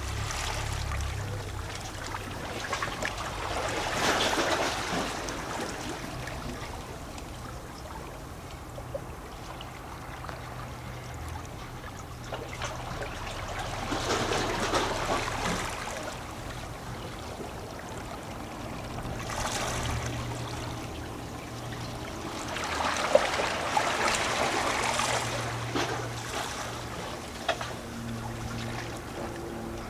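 Small sea waves lapping against rocks, splashing and gurgling. The wash swells four times, each surge lasting a second or two, with small splashes between.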